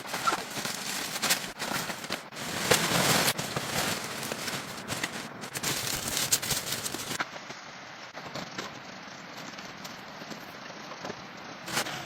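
A rapid, irregular run of sharp cracks and knocks. After about seven seconds it turns fainter and sparser.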